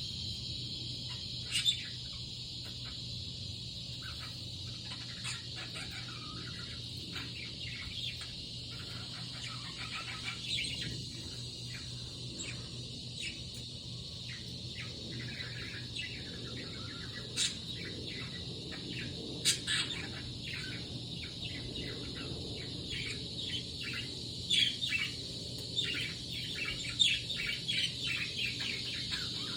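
Budgerigar chirping and chattering in short, scattered notes, with a few sharper chirps and a busier run of notes in the last few seconds, over a steady faint background hum.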